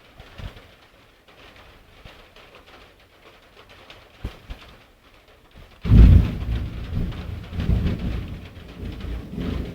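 Rain falling lightly, then about six seconds in a loud thunderclap breaks in suddenly and keeps rumbling.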